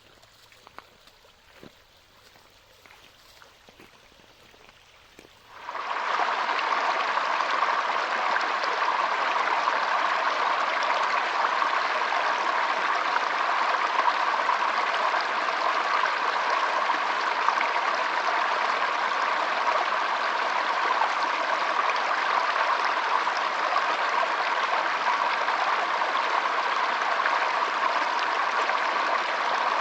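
Running water of a stream, a steady rushing flow that starts suddenly about six seconds in after a quiet stretch with a few faint ticks.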